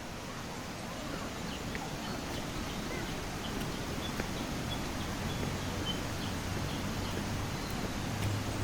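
Tropical forest ambience: a steady rushing noise that slowly grows louder, with a bird giving a series of short high chirps a few seconds in. A low steady hum starts near the end.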